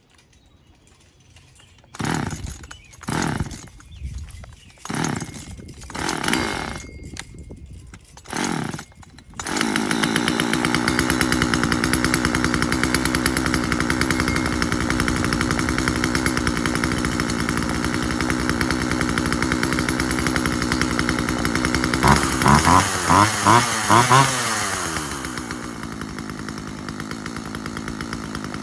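Husqvarna 136 two-stroke chainsaw being pull-started: several short pulls on the recoil starter, then it catches about nine seconds in and runs steadily. Near the end the throttle is blipped four quick times and the engine settles to a lower idle.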